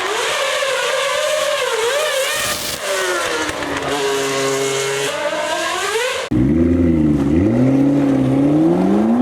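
Supercar engines revving and accelerating in a few spliced clips, the engine note rising and falling. The sound changes abruptly about two and a half seconds in and again about six seconds in, where a louder, deeper engine note takes over and climbs.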